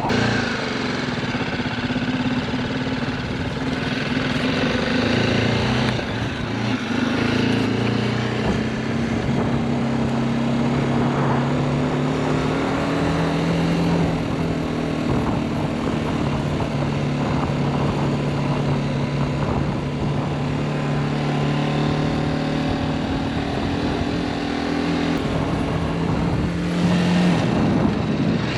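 Motorcycle engine running while riding, its note shifting up and down several times with changes in speed, over steady wind and road noise.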